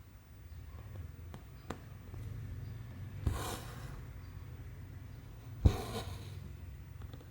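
Needle and cotton thread pulled through cross-stitch fabric: a few faint ticks, then two short raspy pulls, each starting with a sharp click, about three and five and a half seconds in, the second the louder.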